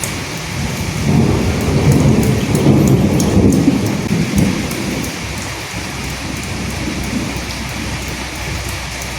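Steady rain falling, with a roll of thunder that rumbles up about a second in, is loudest around the middle and dies away over a few seconds.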